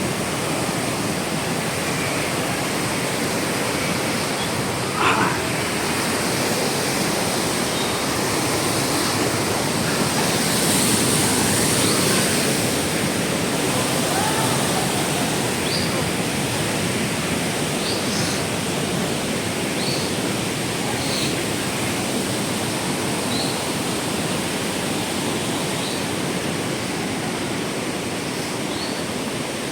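Steady rush of fast-flowing mountain water from a waterfall, with faint short high chirps every second or two in the second half.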